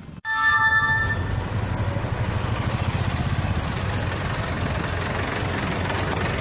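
A horn sounds for about a second, then a heavy vehicle's steady low rumble continues.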